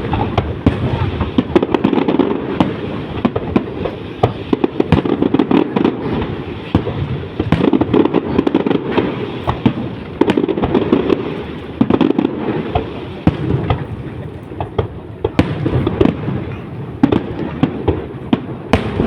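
Fireworks display over the sea: many shells bursting in quick, irregular succession, sharp bangs and crackles over a continuous rumble.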